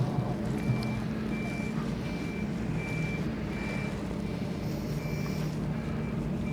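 A vehicle's reversing alarm beeping at an even pace, about three beeps every two seconds, over a steady low engine hum.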